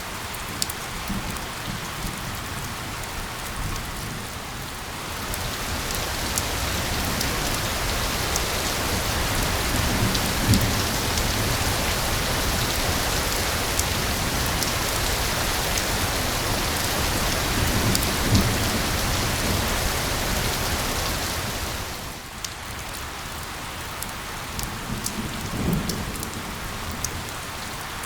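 Steady rain falling, with scattered ticks of single drops. It swells heavier about five seconds in and eases off again about twenty-two seconds in, with two low rumbles of thunder during the heavier stretch.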